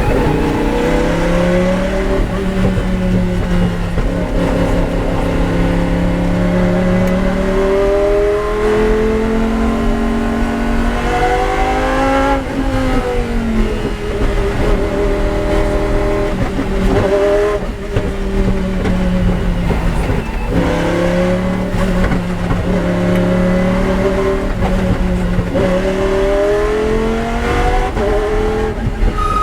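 Lamborghini Huracán GT race car's V10 engine running hard at track speed, its revs climbing and falling over and over as it accelerates, shifts and slows through corners.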